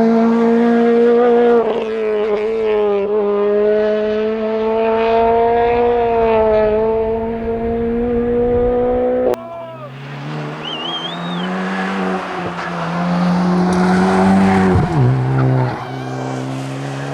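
Peugeot 208 VTi R2 rally car at full throttle, its engine holding a steady high-revving note for about nine seconds before the sound cuts off abruptly. Then a Hyundai i20 N3 rally car, its engine lower in pitch and climbing, with a brief squeal and a sudden drop in revs near the end.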